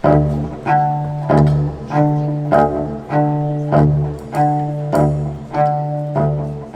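Live band music kicks in suddenly: a steady low bass note under accented string chords that repeat about every 0.6 seconds in an even pulse.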